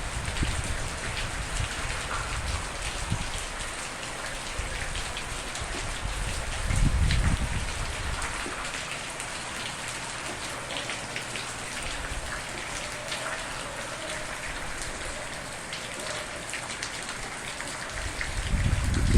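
Steady rain falling, a dense even patter of drops. Two brief low swells rise out of it, one about seven seconds in and another near the end.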